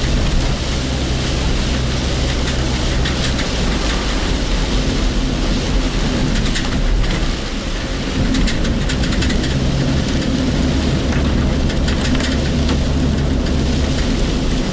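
Car running in heavy typhoon rain, heard from inside the cabin: a steady engine hum under a constant hiss of rain and road noise, with scattered raindrop taps. The engine hum fades for a few seconds in the middle, then returns.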